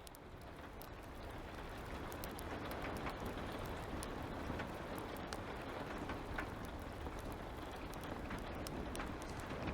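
Light rain falling steadily, with the sharp pops and crackles of a fire scattered through it. The sound fades in over the first couple of seconds.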